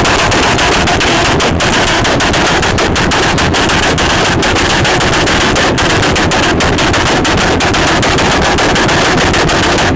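A very loud car engine revved up and held at full revs, its exhaust giving a rapid, unbroken crackle.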